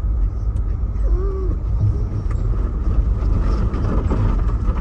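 Steady road and engine noise of a car being driven: a low, even rumble.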